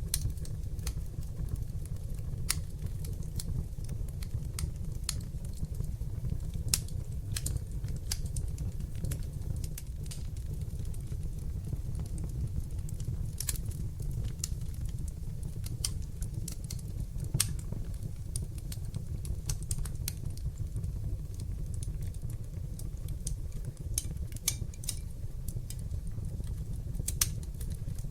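Wood fire burning in a fireplace: irregular sharp crackles and pops over a steady low rumble of flames, with a few louder single pops.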